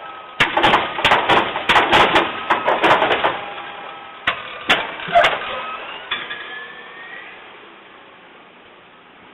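Garbage truck taking on a load: a rapid run of bangs and clattering for about three seconds, then a few single knocks, after which the truck's steady running sound fades.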